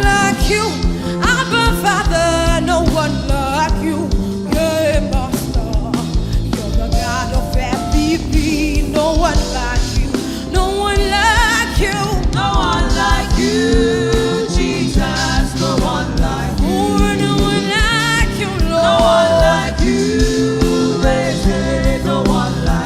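Live gospel praise music with a full band and a singer's voice, to a steady beat.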